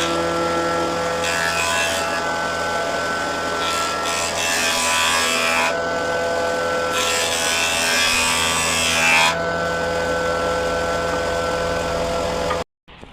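Electric woodworking power tool running steadily on wood, with several seconds-long stretches of louder rasping as it cuts into the wood; the sound cuts off suddenly near the end.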